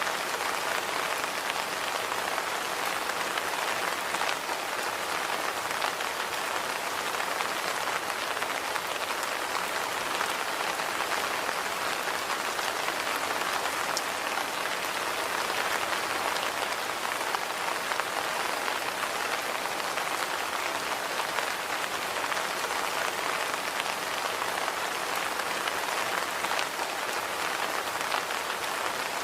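Steady rain falling, a constant hiss with the odd faint drop tick and no change in strength.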